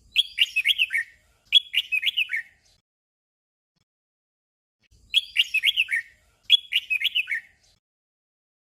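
Red-whiskered bulbul singing its short 'doubled' song: a brief phrase of quick, falling whistled notes given twice in a row. The pair is repeated after a pause of about two and a half seconds.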